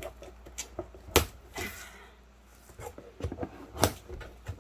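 Cardboard shipping box being worked open by hand: a handful of sharp knocks and taps, the loudest about a second in, with a short scraping rustle of cardboard and packing tape just after it.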